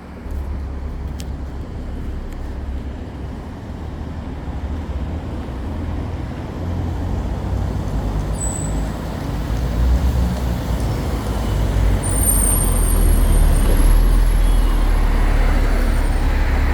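Cabin noise of a LiAZ 5292.67 natural-gas city bus under way, heard from inside the passenger cabin: a deep, steady engine and road rumble that grows louder in steps. A thin high whine joins about twelve seconds in.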